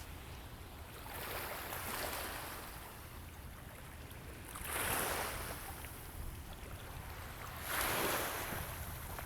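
River water washing up twice, each a swell of hiss lasting about a second, over a steady low rumble of wind on the microphone.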